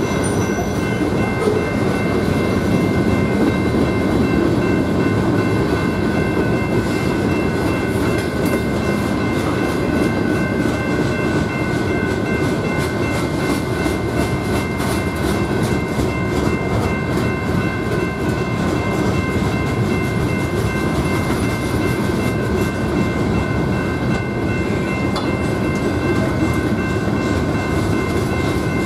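Freight train of open-top hopper cars rolling steadily past a grade crossing: a continuous rumble and clatter of steel wheels on the rails, with steady high ringing tones above it.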